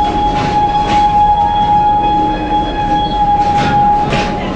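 Serengeti Express open-sided train rolling along with a steady rumble, a steady high-pitched tone held throughout, and a few short rushes of noise.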